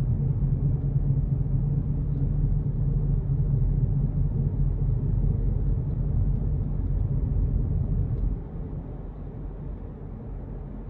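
A low, steady hum with road noise from a moving car, dropping in level about eight seconds in. The hum appeared after the anti-roll bar bushes were replaced, and the owner questions whether it comes from the wheel bearings.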